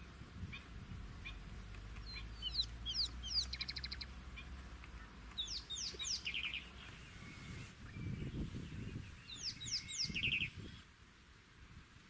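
A bird singing three short phrases a few seconds apart, each a cluster of quick high sweeping notes ending in a fast buzzy rattle, with a few soft chirps before the first. A brief low rumble comes about two-thirds of the way through.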